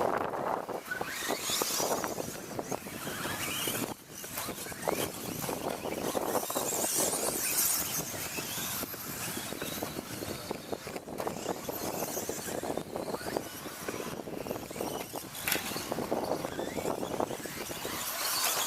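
Radio-controlled stadium trucks racing round a track: small motors running and tyres skidding on the surface, the sound swelling and fading as trucks pass, with scattered clicks and clatter.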